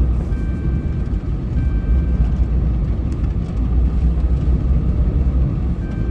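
Snow-plow truck driving, heard from inside the cab: a steady, loud low rumble of engine and road noise, with faint high tones coming and going about once a second.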